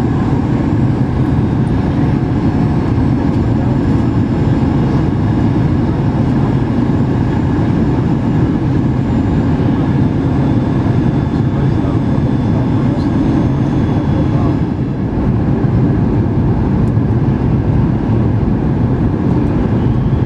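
Steady cabin noise of a Boeing 737-8 MAX in flight, heard from inside the passenger cabin: a deep, even rumble of airflow and engines with faint steady whining tones from its CFM LEAP-1B turbofans.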